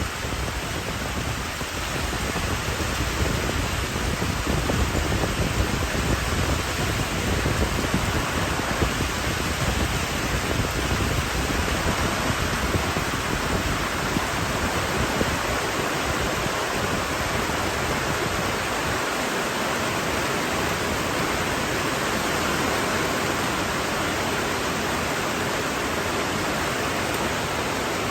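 Heavy rain falling steadily as an even hiss, with a deeper rumble in the first half that eases off about halfway through.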